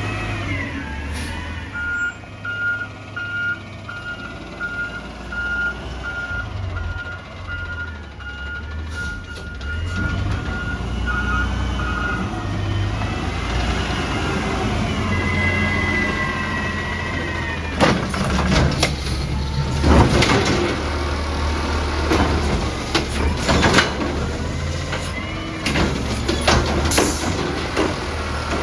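Amrep-bodied garbage truck running, its reversing alarm beeping about twice a second for roughly ten seconds. Later a wavering whine comes in, then several loud metal bangs and clanks over the engine.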